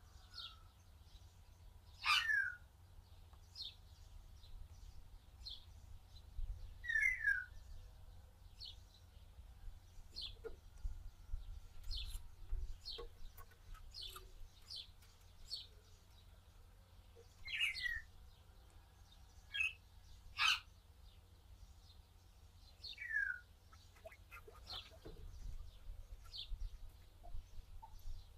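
Birds chirping: short, high calls every second or two, several of them sliding down in pitch, over a steady low hum.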